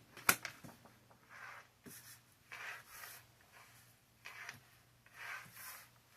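Tarot cards being handled: a sharp tap about a third of a second in, then faint soft sliding and rubbing sounds now and then.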